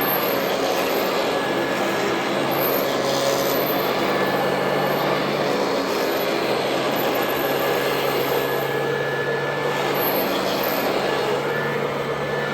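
Royal Model 2008 upright vacuum cleaner running steadily, a constant motor hum under the rush of its fan and airflow.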